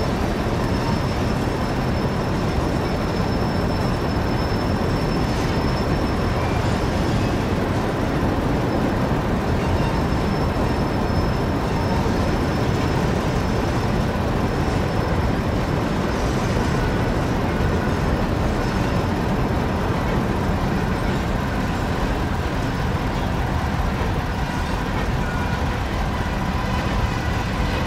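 Freight cars of a Norfolk Southern manifest train rolling past: a steady rumble of wheels on rail, with a faint high steady tone over the first ten seconds or so.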